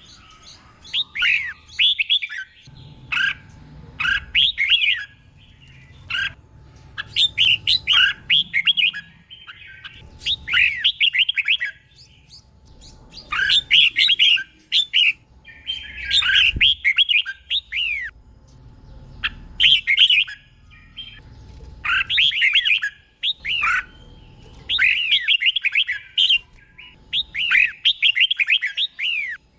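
Red-whiskered bulbul singing: a run of short, quick warbled phrases, each a second or two long, repeated with brief pauses between them, over a faint low hum.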